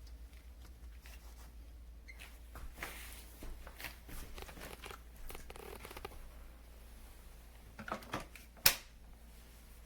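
Scattered handling noises: light rustles and clicks, with one sharp click near the end.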